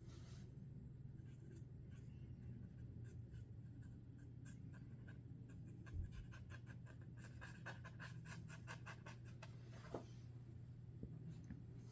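Sharpie Creative Marker tip scratching faintly across paper in short strokes, quickening in the middle into a run of about five strokes a second. There is a single low thump about six seconds in.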